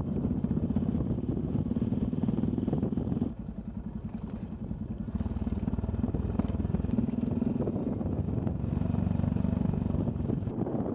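Yamaha XT660Z Ténéré's single-cylinder engine running under way. It drops off sharply about a third of the way in, as if the throttle is closed, then builds back up over the next couple of seconds.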